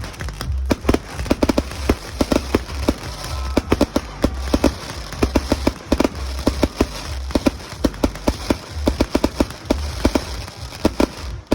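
Aerial fireworks going off in a dense, irregular barrage of bangs and crackling pops, several a second, over a low rumble.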